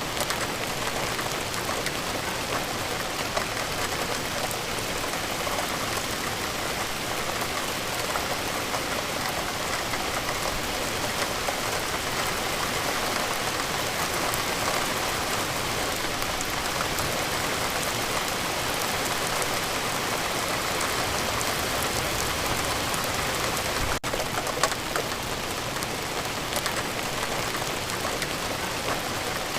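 Steady rain falling, an even hiss of rain with many individual drops ticking on a surface, briefly dipping once near the end.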